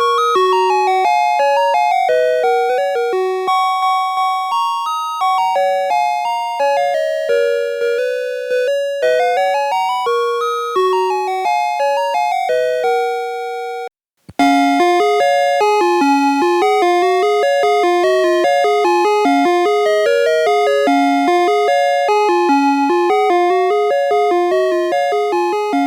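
Snap Circuits sound chip playing simple electronic tunes, one beeping note at a time, recorded straight from the circuit. The first tune cuts off about halfway through, and after a moment's silence another tune starts.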